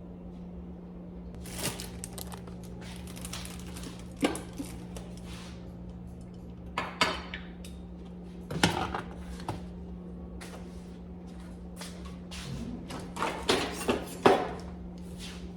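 Dishes and cutlery clinking and clattering as they are handled, in irregular knocks and clicks over a steady low hum.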